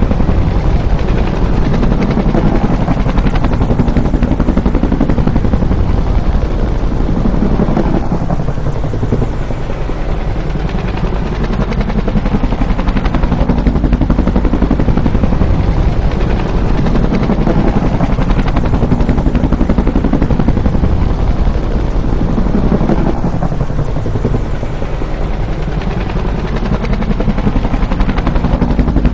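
Bell UH-1 "Huey" helicopter, its two-bladed main rotor beating in rapid, even pulses over the engine's steady noise. The sound is loud and swells and eases in a cycle of about fifteen seconds, dipping a little twice.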